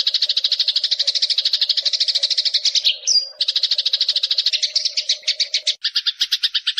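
Eurasian tree sparrow chattering: a fast, unbroken string of chirps, about a dozen a second, with a short break and a single squeaky note about three seconds in. About six seconds in, the chirps change and take on a lower tone.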